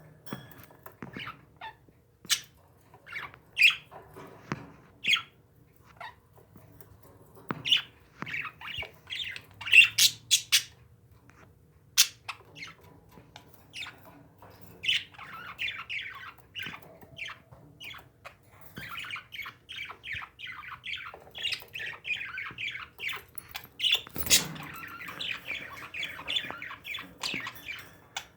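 Pet parakeets chirping and squawking in short calls, which thicken into near-continuous chatter in the second half. A few sharp clicks or taps come in between, the strongest near the end.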